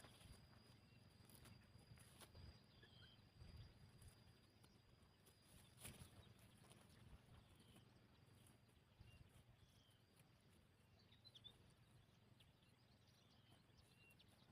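Near silence: faint outdoor ambience with scattered soft taps and a few faint short chirps.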